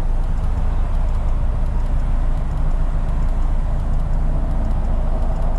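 Subaru flat-four boxer engine with a modified exhaust idling steadily, a low even hum.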